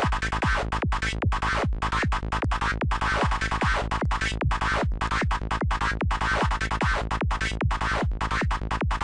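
Psytrance loop at 150 BPM: a kick drum on every beat, about two and a half a second, with a dark, FM-like synth lead from Native Instruments Massive playing rapid, chopped notes between the kicks. The lead has tube distortion and a touch of the dimension expander effect on it.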